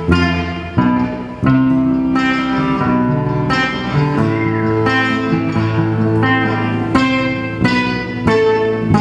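Music led by a plucked guitar: a run of picked notes over sustained bass notes, with a regular pulse.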